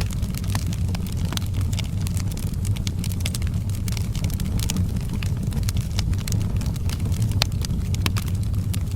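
Wood fire in a fireplace crackling, with frequent irregular snaps and pops over a steady low rumble; one pop about seven and a half seconds in is the sharpest.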